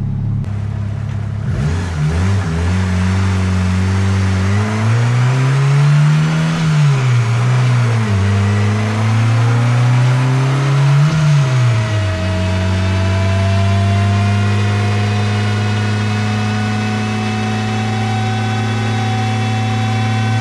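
Turbocharged Honda D16 single-cam four-cylinder in a Civic on a chassis dyno, starting a pull. It idles briefly, revs up and falls back about three times, then holds a long steadier run whose pitch slowly rises.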